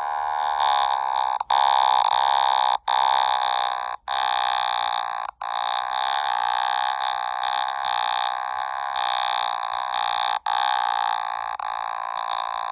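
Otamatone played to imitate a car engine: a continuous pitched tone that slides in pitch and breaks off briefly about five times, picking up again after each break, then stops at the end.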